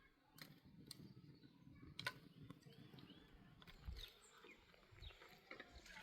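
Near silence: faint outdoor background with a few soft clicks and brief faint chirps.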